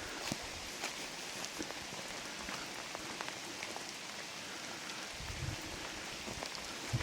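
Steady rain falling in a forest, with scattered individual drops ticking sharply. Low thumps begin about five seconds in.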